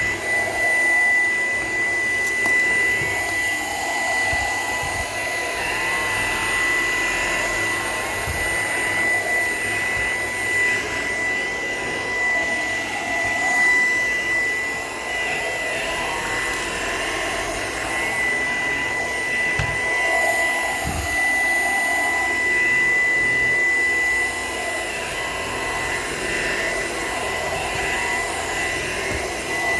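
Shark PowerDetect vacuum cleaner running, a steady high whine over the rush of suction, its level swelling and dipping a little throughout, with a few faint knocks.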